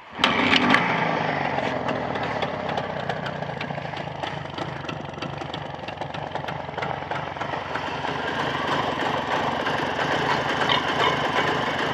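Jawa 634 two-cylinder two-stroke motorcycle engine starting up and then running steadily. The engine is freshly rebuilt and still being run in.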